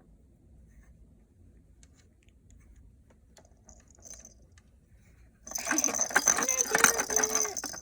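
A kitten's rolling toy ball batted about, a few faint taps and then a loud jingling rattle that starts suddenly about five and a half seconds in.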